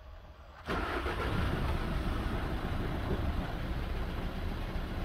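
VW 1.6 TDI four-cylinder diesel engine starting a little under a second in, catching at once and running at a steady idle with its new EGR valve fitted.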